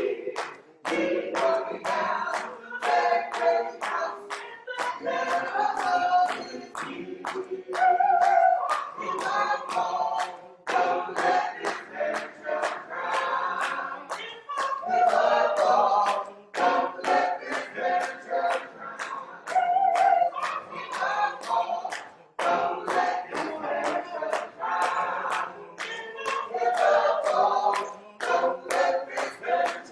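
An a cappella gospel choir singing to steady handclaps on the beat, about two claps a second, with brief breaks between phrases.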